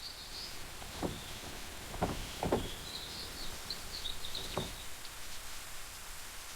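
Outdoor ambience with small birds chirping faintly and high-pitched through the first few seconds, and four soft knocks spread through it.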